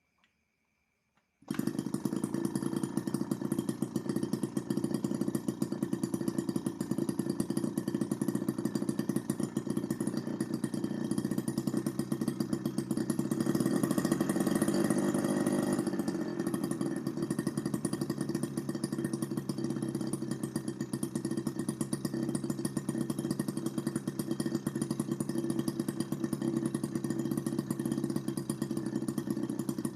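Miniature two-stroke engine built from a refrigerator compressor running at high speed, a fast steady buzz of firing strokes. It cuts in suddenly about a second and a half in and grows briefly louder around the middle.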